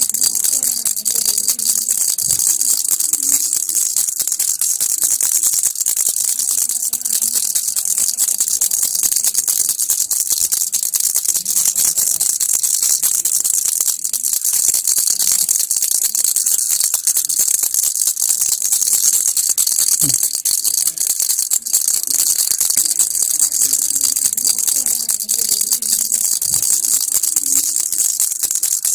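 Baby rattle (kilukki) shaken without a break: a steady, dense, high-pitched rattling.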